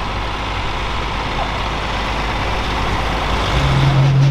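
Turbocharged pro stock pulling tractor's diesel engine running at low speed. A steady, deeper hum comes in about three and a half seconds in and grows louder.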